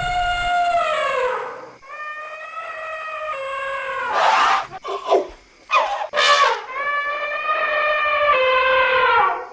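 Elephants trumpeting: three long, high pitched trumpet calls, the first sliding down in pitch, with three short harsh blasts in the middle.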